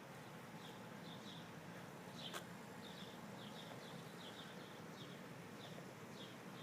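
Faint outdoor quiet with small birds chirping, short high chirps repeating irregularly about twice a second, and a single sharp click a little over two seconds in.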